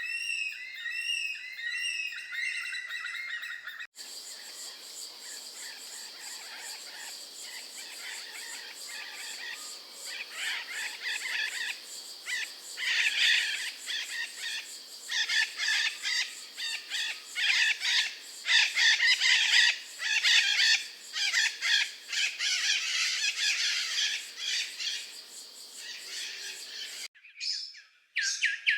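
Birds calling. First a bird repeats quick rising chirps; then, after an abrupt change, a dense chorus of many birds calling, growing louder about twelve seconds in; near the end it switches abruptly again to a different bird's run of repeated notes.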